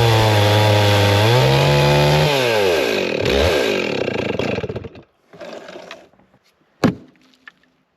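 Two-stroke chainsaw running, revving higher about a second in, then dropping in pitch and dying away about five seconds in. A sharp knock follows near the end.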